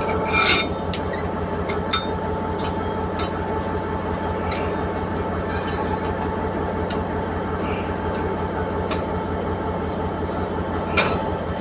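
Diesel train running, a steady drone with a pulsing low rumble and a high steady whine, broken by a sharp click every couple of seconds.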